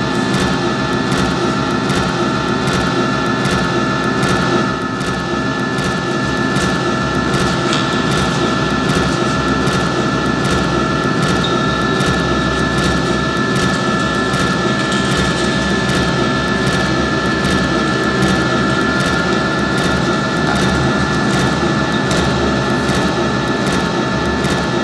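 Dense, steady experimental noise drone from a mixing desk fed back on itself through effects pedals, with a few sustained feedback tones held high over a thick rumbling wash and a constant fine crackle.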